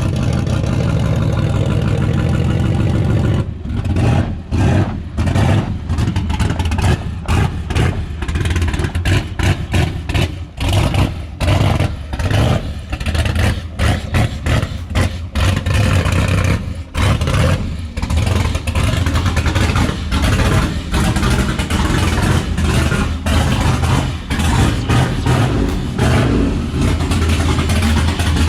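Fox-body Mustang's engine running loud and steady. From about three seconds in, the sound turns choppy and uneven, rising and dropping many times a second.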